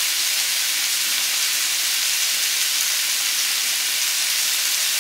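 Chicken frying in a pan on the stove: a steady sizzle.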